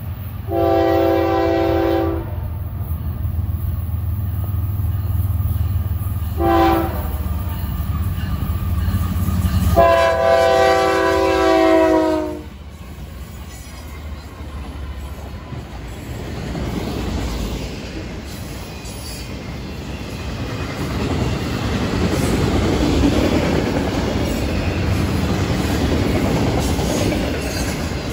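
Horn of a Florida East Coast freight led by GE ES44C4 locomotives, sounded for a grade crossing: a long blast about a second in, a short one about six seconds in and a long one about ten seconds in, over a low diesel rumble. The locomotives pass about halfway through, and the horn gives way to steady wheel-on-rail noise and clickety-clack as autorack cars roll by.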